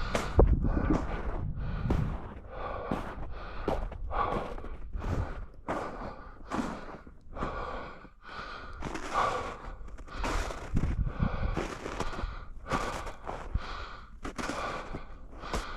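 Footsteps crunching through snow at a walking pace, about three steps every two seconds, with the walker's heavy breathing.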